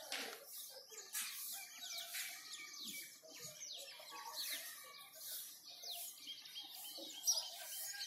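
Birds calling: many short, high chirps sweeping downward in quick succession, with a quick run of repeated notes about midway.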